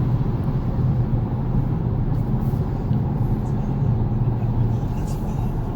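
2019 Audi S5 Sportback's engine running at steady revs, a low even hum heard from inside the cabin.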